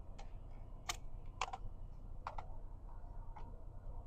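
A few light, separate clicks and knocks of small kitchen items being handled and put away, over a steady low hum.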